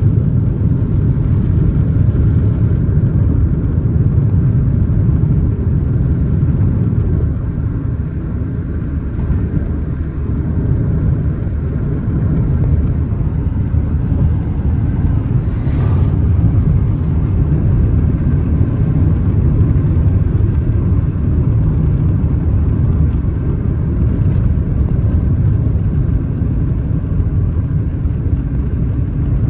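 Steady low road rumble of a vehicle in motion, with a short higher-pitched sound about halfway through.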